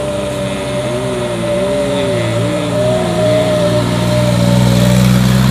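Motor vehicle engine running, its pitch wavering up and down and growing steadily louder, over a steady high whine.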